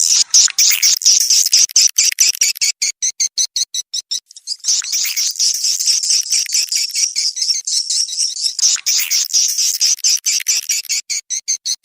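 Rapid, high-pitched twittering and clicking chatter of swiftlets, a swiftlet lure call ('suara walet panggil') played to draw swiftlets in to roost. The chatter dips briefly about four seconds in, then runs on as a dense trill.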